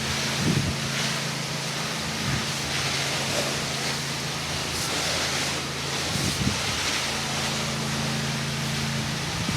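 High-pressure water spray hissing against a house wall, swelling and fading as the jet moves, over the steady hum of the pressure washer's engine.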